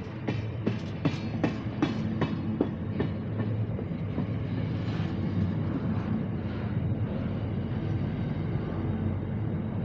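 NR class diesel-electric locomotives of a freight train passing slowly. The wheels click over the rail joints about three times a second for the first three seconds or so, over a steady low diesel engine drone.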